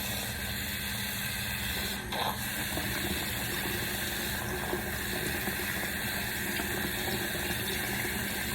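Tap water running steadily while hair is washed, with a brief louder moment about two seconds in.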